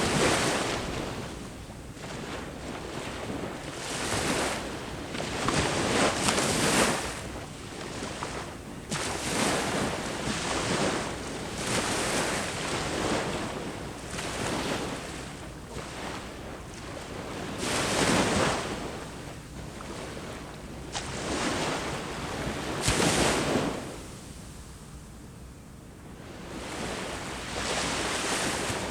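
Sea waves breaking and washing up the shore, rising and falling in repeated surges every few seconds, with a quieter lull about two-thirds of the way through.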